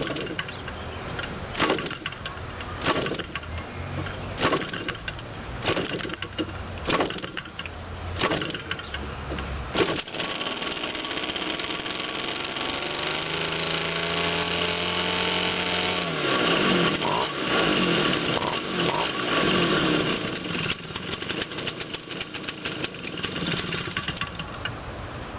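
Quatra 52cc two-stroke gasoline model-airplane engine being hand-started by flipping the propeller: a string of sharp flips about every second and a half, then the engine catches about ten seconds in and runs, its pitch rising and falling.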